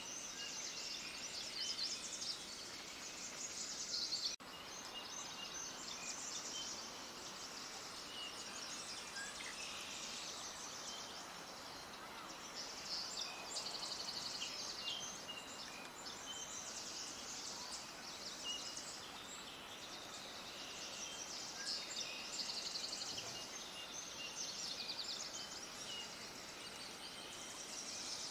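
A dense chorus of many small birds chirping and twittering, high-pitched and continuous, over a steady background hiss. There is a brief dropout about four seconds in.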